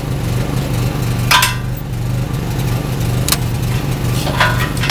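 Engine running steadily, with a few sharp knocks as the air-line couplings are unhooked from a detachable-gooseneck lowboy trailer.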